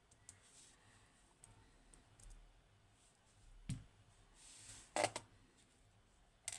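Scattered small clicks and taps of metal lock parts being handled during disassembly of a pin-tumbler lock: a dull knock a little before four seconds in, a sharper double click about five seconds in, and another click near the end.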